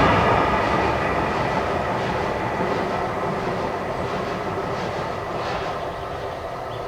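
Heritage railway train rolling past on the rails and moving away, its rumble fading steadily.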